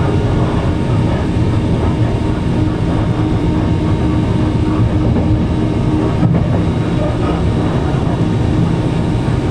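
Avanti West Coast Pendolino electric train running, a steady, unbroken rumble of wheels and running gear with a faint steady hum above it.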